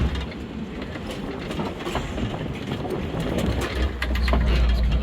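Safari ride vehicle driving over a rough track: a low rumble with scattered rattles and knocks from the vehicle's body. The rumble grows stronger in the second half.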